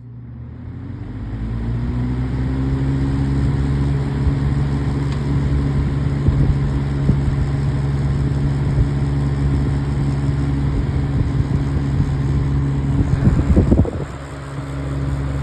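A 2004 Haier 20-inch box fan running on high. Its motor hum builds as the blades spin up over the first couple of seconds, then holds steady with a rush of moving air. Near the end there is a brief burst of rougher noise, after which it is slightly quieter.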